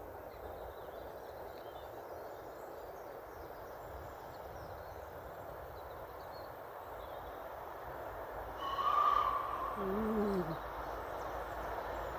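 Outdoor ambience: a steady distant rumble that slowly grows louder, with faint birdsong. About nine seconds in comes a short high steady tone, and just after it a brief low hoot that falls in pitch.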